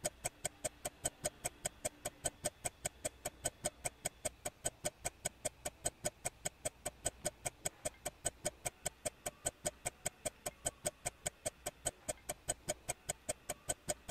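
Countdown-timer ticking sound effect: short, even clicks at about four a second, steady throughout.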